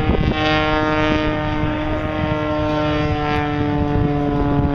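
Propeller airplane flying past with a loud, steady engine drone whose pitch sinks slowly as it goes by, over wind rumble on the microphone.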